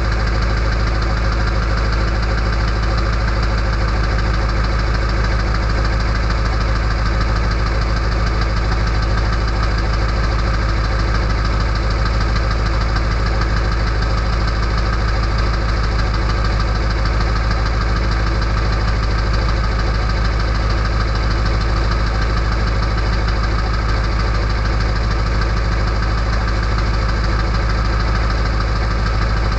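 The 7.3L Power Stroke V8 diesel of an early-1999 Ford F-250 idling steadily through a straight-pipe exhaust while it warms up after a cold start at 34°F.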